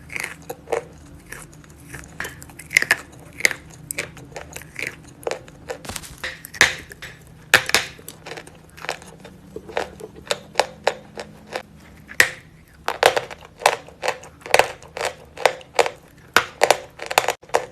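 Close-up crunching of dried clay paste being bitten and chewed: sharp, crisp cracks a few times a second, coming faster and denser in the last few seconds.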